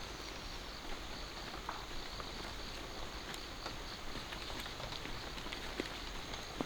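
Outdoor rural ambience: a steady high-pitched hiss or drone runs throughout, with scattered soft footsteps and light clicks.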